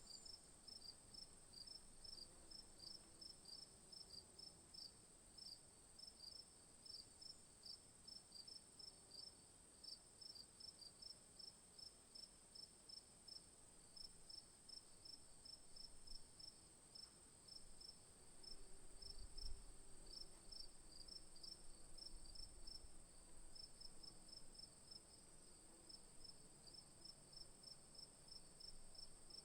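Faint insect chorus, crickets chirping: a steady high-pitched drone with rapid, evenly repeated chirps beneath it. A soft low thump about two-thirds of the way through.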